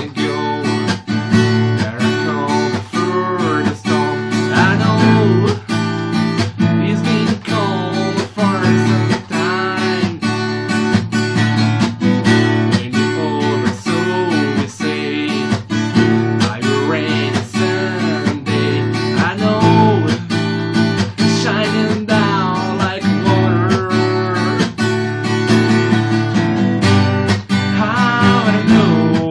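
Acoustic guitar strummed in a steady rhythm, several strokes a second, with the music running throughout.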